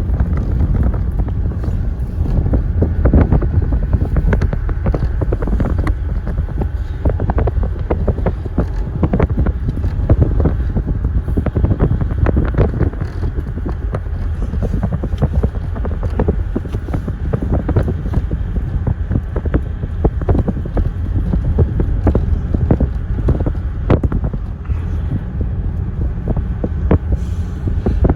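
Wind buffeting the microphone over the steady low rumble of a vehicle on the move, with many small knocks and rattles throughout.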